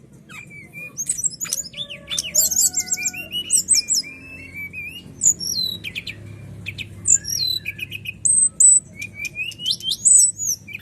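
Captive songbird singing a varied, clear song of high whistled notes, quick trilled runs and rapid chirps, many sweeping up or down in pitch.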